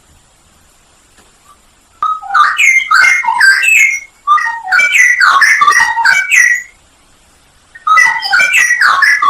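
Straw-headed bulbul (cucak rowo) singing: three loud bursts of rich, bubbling warbled phrases. They start about two seconds in, with short pauses between them, and each lasts two to three seconds.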